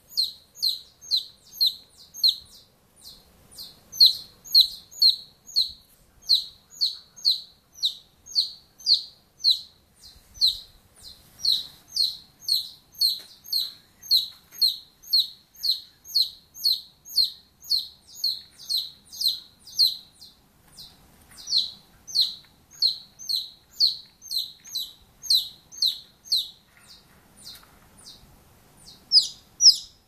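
A bird calling in a steady series of short, high chirps, about two a second, repeated without a break except for a few softer notes.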